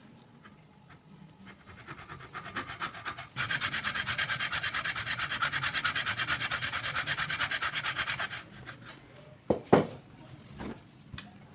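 Knife blade rubbed rapidly back and forth on an abrasive sharpening surface: a few light strokes, then about five seconds of fast, even scraping strokes that stop abruptly. About a second later come two sharp knocks close together.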